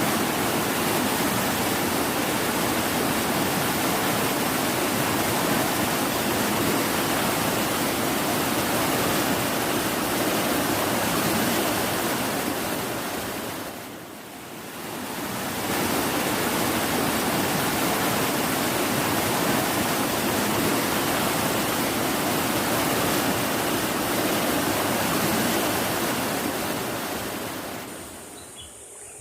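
Loud, steady rush of fast-flowing water from a monsoon-swollen river or waterfall. It dips briefly about halfway through, then comes back and fades out near the end.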